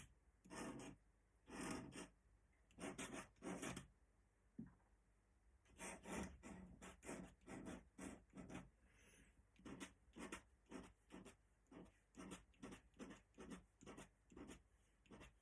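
Faint scratching of ink strokes drawn on paper: a few separate strokes at first, then a steady run of short quick strokes, about three a second, from about six seconds in, as feathers are sketched.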